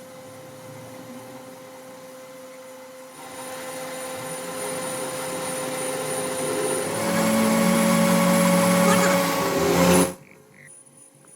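Workshop machinery running with a steady hum and whine. It grows louder about three seconds in and again about seven seconds in, then stops abruptly about ten seconds in.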